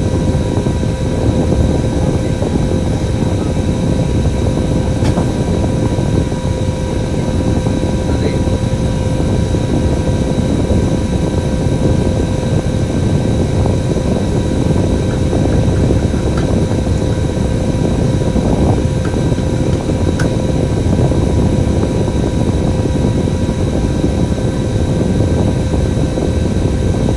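KMB double-decker bus running, a steady low engine and road rumble heard from inside the cabin, with a faint steady whine on top.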